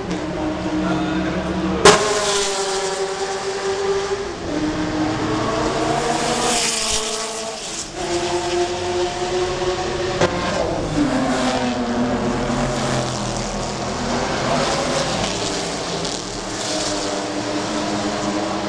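Ford GT40's V8 racing engine running hard at speed, its note stepping down and climbing again several times as it shifts gears and lifts and accelerates. A single sharp crack sounds about two seconds in.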